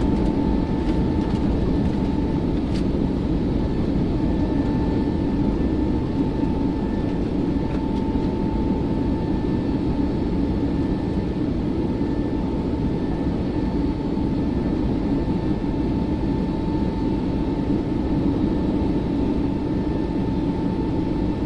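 Jet airliner climbing after takeoff: a steady roar of engines and airflow with a constant high whine running through it, unchanging in level.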